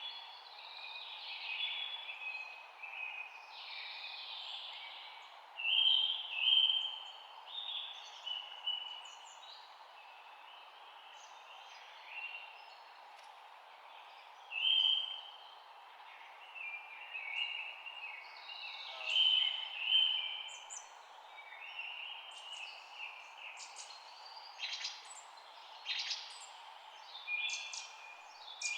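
Several birds chirping and singing in short, overlapping calls and trills, some louder bursts standing out, over a steady low background hiss.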